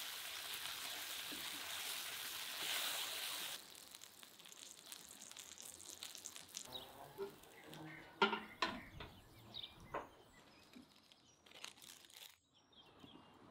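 Sausage, tomato and onion frying in a pan, sizzling steadily, cut off suddenly after about three and a half seconds. Quieter scattered clicks and knocks follow.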